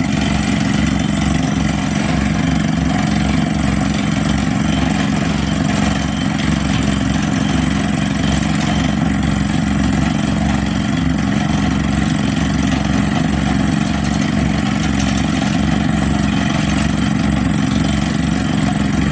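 Engine of a heavy machine running steadily at an even speed, with a low, rapid pulsing throb under a steady drone.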